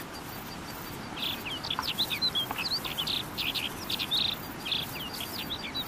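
Small birds chirping in quick runs of short, high notes and little slurred whistles, starting about a second in, over faint outdoor ambience.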